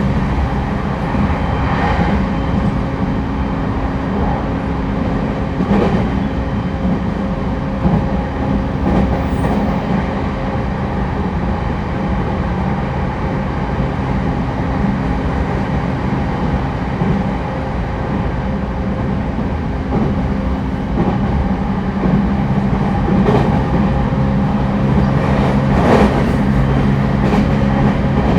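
Interior running noise of a JR East E231-1000 series commuter EMU at speed: a steady rumble with a low hum and a few sharp clacks of the wheels over rail joints.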